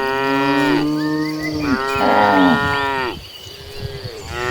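Several cattle mooing: long, drawn-out calls that overlap, one cow starting as another trails off, with a lower call held under the first and a quieter gap about three seconds in before another moo starts near the end.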